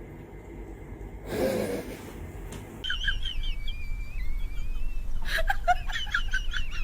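A bird chirping and whistling: rapid high chirps and a drawn-out whistle begin about three seconds in, then a quick run of short chirps. A brief scuffing noise comes earlier.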